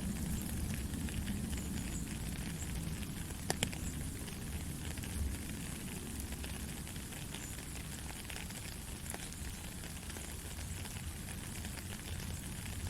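Steady rain falling, a continuous hiss with scattered pattering drops and a couple of sharper drop ticks about three and a half seconds in.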